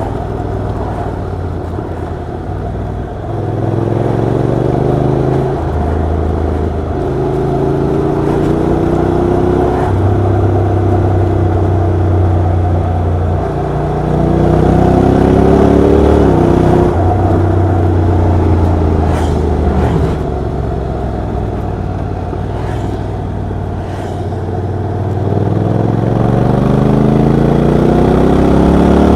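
Honda NC750X motorcycle's parallel-twin engine under way, its pitch climbing under acceleration and dropping back at each gear change several times, then climbing again near the end.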